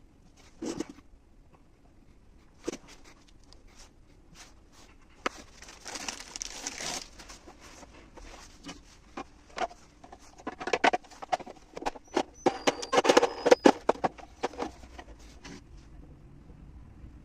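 Irregular clicks and knocks, with a brief scraping stretch about six seconds in and a dense run of rattling clicks from about ten to fourteen seconds in.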